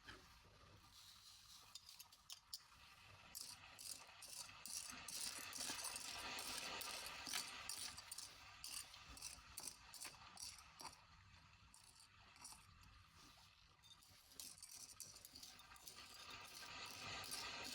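Faint clicking and rattling of small hard objects being handled, over a soft hiss that swells twice and fades.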